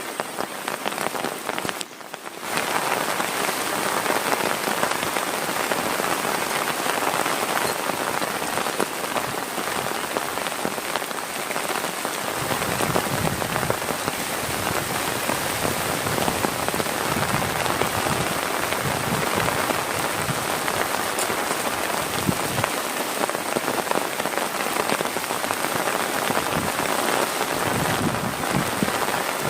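Heavy rain falling steadily in a dense, even hiss, dipping briefly about two seconds in. From about twelve seconds in, a low rumble joins underneath.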